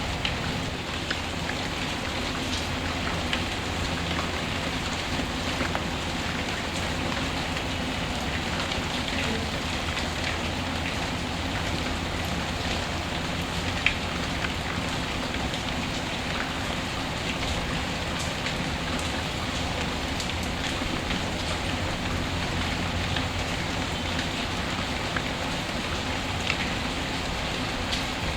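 Recorded rain ambience: a steady hiss of falling rain with a low rumble beneath and scattered small ticks. One sharper click comes about halfway through.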